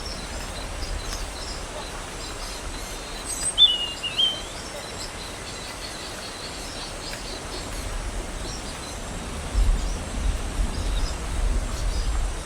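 Outdoor ambience with small birds calling: scattered faint high chirps, and one clearer two-part call a little over a quarter of the way in. An uneven low rumble sets in about three-quarters of the way through.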